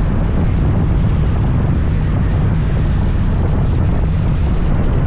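Steady wind rush on a helmet-mounted microphone while riding a scooter, with the scooter's engine and road noise blended into a low rumble.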